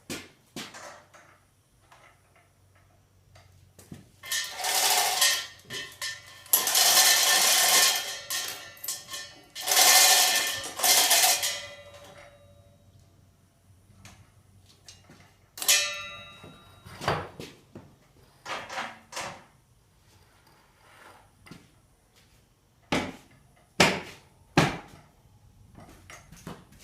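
Metal jack being dragged and set into position: loud scraping runs over several seconds, then a ringing metal clank and a few sharp knocks near the end.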